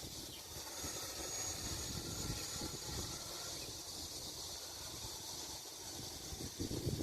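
Strong wind gusting on the microphone, an uneven low rumble over a steady high hiss.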